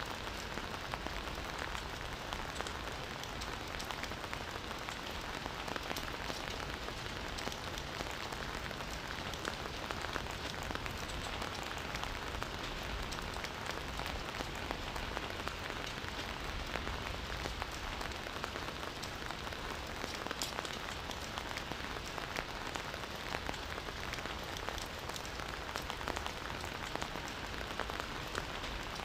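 Steady rain falling on forest foliage and ground: a dense, even hiss of drops with many small patters.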